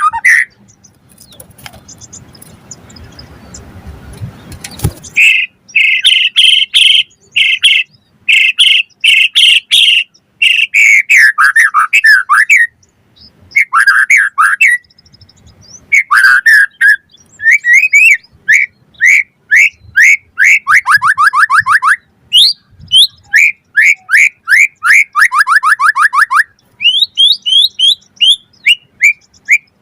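White-rumped shama (murai batu) singing loud, varied phrases of whistles, downward-sweeping notes and fast trills, starting about five seconds in after a low rustling noise.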